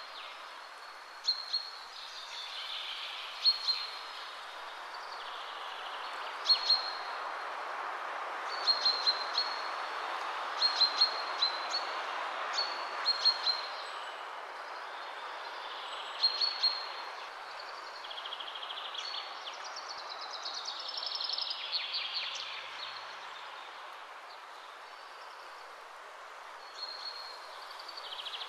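Small birds chirping: short sharp chirps in quick little clusters every couple of seconds, with a longer warbling song about twenty seconds in, over a steady background hiss.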